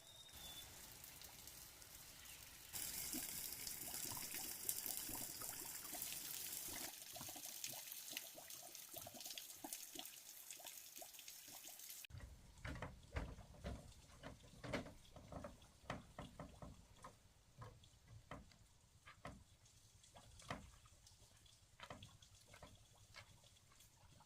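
Water pouring and splashing for several seconds, then trickling and dripping. About halfway through it gives way to a run of irregular knocks and taps.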